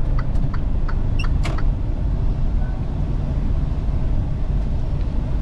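Semi truck's diesel engine and road noise heard steadily from inside the cab as it drives slowly, with a few light clicks in the first second or two.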